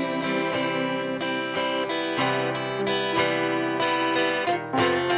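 Instrumental interlude of a worship song: acoustic guitar strumming chords over held notes, with no singing. The sound dips briefly near the end before the next phrase begins.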